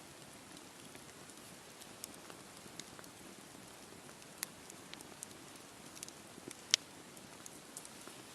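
Wood campfire crackling: a faint steady hiss broken by scattered sharp pops, one much louder pop about two-thirds of the way in.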